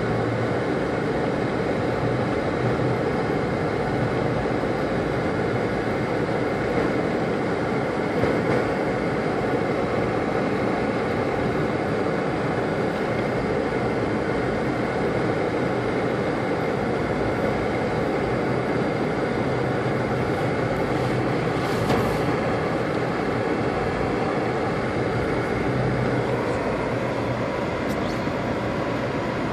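Steady road and engine noise of a car being driven along a snow-covered road, heard from inside the car.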